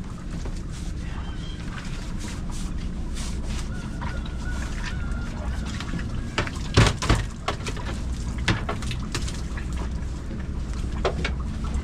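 A fishing boat's engine running steadily, under scattered knocks and clatter of fish and gear being handled on deck, with one loud knock about seven seconds in.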